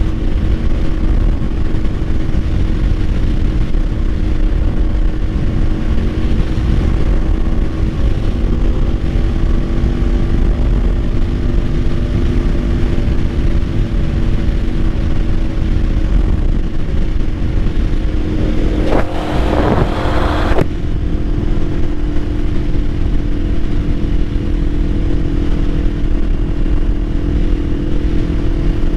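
Kawasaki Ninja 500's parallel-twin engine running at a steady pitch while cruising, under heavy wind rumble on the helmet camera's microphone. About two-thirds of the way through, a brief rushing noise rises over it for a second or two.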